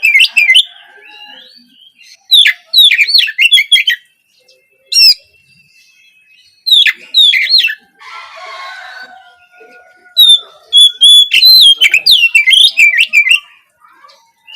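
Oriental magpie-robin singing in loud bursts of rapid, varied chirps and whistled notes, with short pauses between phrases. A softer raspy patch with a faint whistle comes about eight seconds in.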